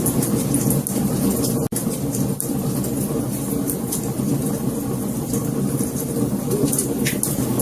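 Wood fire crackling: a steady low rush of burning with many small, irregular pops and snaps. The sound drops out for an instant a little under two seconds in.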